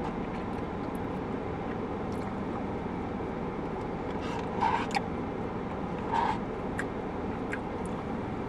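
Steady low background hum, with two short scraping or handling sounds about four and a half and six seconds in.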